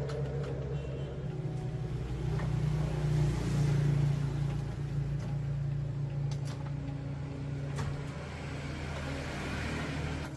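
Small car engine running steadily, swelling slightly a few seconds in and then stopping abruptly near the end.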